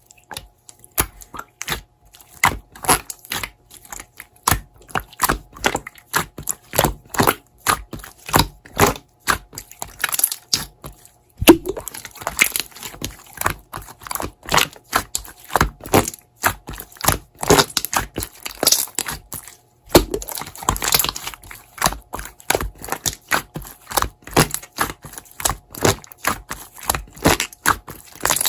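Keyboard typing clicks, irregular taps a few a second, with two brief pauses about 11 and 20 seconds in.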